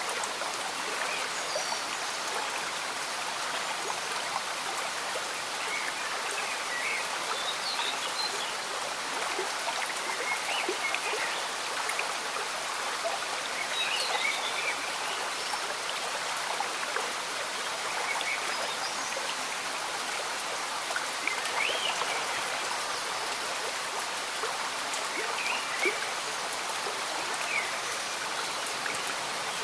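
A slow-moving stream bubbling under steady gentle rain. The water and rain make a constant hiss, dotted with small, quick gurgles.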